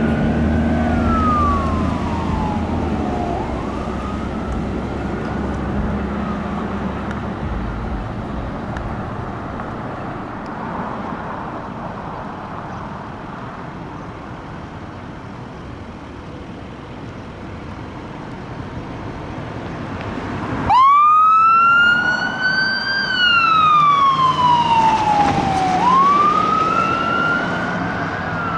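Fire apparatus siren on a wail, rising and falling, fading away with the truck's engine rumble over the first few seconds, leaving road noise. About two-thirds of the way through a loud siren starts suddenly and wails up and down twice.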